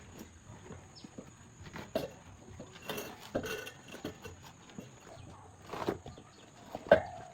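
Irregular knocks and clicks of hand tools and parts being handled during motorcycle tire repair, a few seconds apart, the loudest a little before the end.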